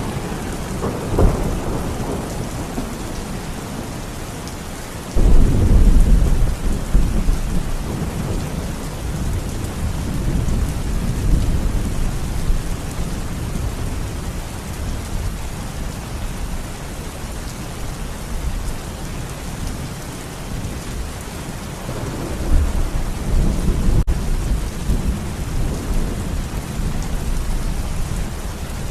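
Steady rain with thunder rumbling. A loud clap starts suddenly about five seconds in and rolls on for several seconds, and another roll of thunder comes about two-thirds of the way through.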